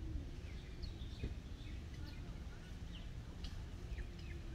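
Faint, scattered short chirps of wild birds over a steady low outdoor rumble.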